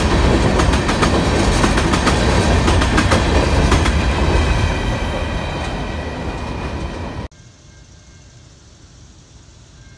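Freight train rolling past close by, steel wheels clicking over the rail joints, easing slightly in level from about halfway. About seven seconds in the sound cuts off abruptly to a faint, steady background.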